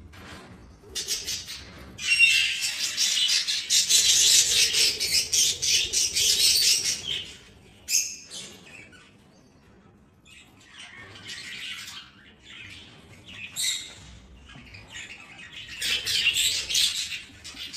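A flock of budgerigars chattering and squawking, a dense loud stretch from about two to seven seconds in, then quieter scattered calls, rising again near the end.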